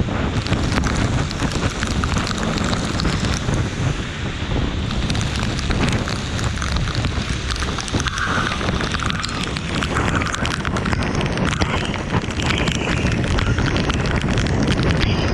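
Steady rain falling, a dense patter of drops, with heavy wind rumble on the microphone.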